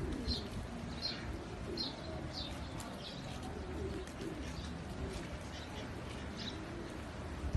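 Birdsong: a string of short high chirps about every half second, over the low cooing of doves.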